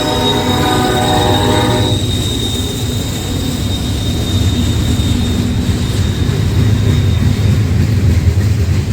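A train's multi-note diesel locomotive air horn sounding and cutting off about two seconds in, followed by the low rumble of the passing train. A thin, steady high-pitched whine runs over the rumble and fades out near the end.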